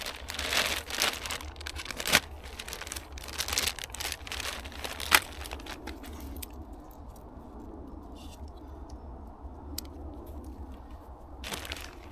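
An army ration pack's packaging being torn open and crinkled as the contents are rummaged through, with a couple of sharp clicks in the first half. It goes quieter for several seconds, then the crinkling starts again near the end.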